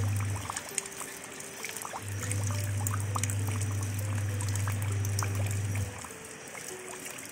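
Rain falling on a shallow puddle over gravel, with many separate drop splashes. Soft background music sits under it: a low bass hum that drops out twice, and quiet held notes.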